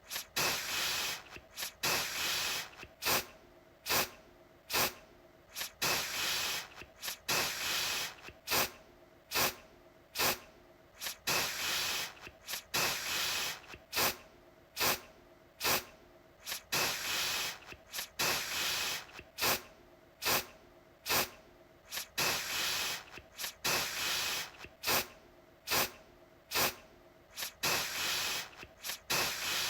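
Aerosol deodorant can spraying in repeated bursts of hiss, about one or two a second, some brief puffs and some held for about a second.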